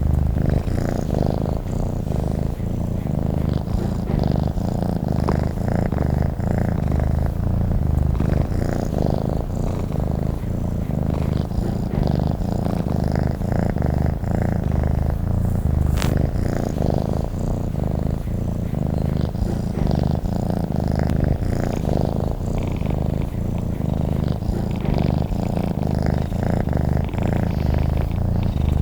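Domestic cat purring steadily and close up: a continuous low, rhythmic rumble, with a single small click about sixteen seconds in.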